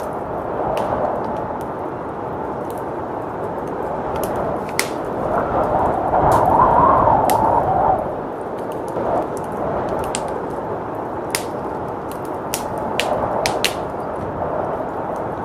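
Steady blizzard wind, swelling stronger about halfway through, with a wood fire crackling and giving off sharp, irregular pops.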